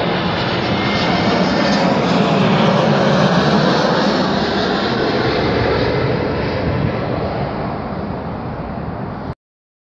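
Airbus A321-100 airliner flying low overhead on landing approach: a loud, steady jet noise from its engines and airframe, easing off slowly and then cut off abruptly near the end.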